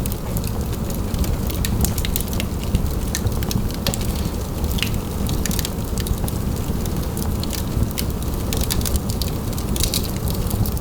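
Wood fire burning in a fireplace: a steady low rumble with many small, irregular crackles and pops throughout.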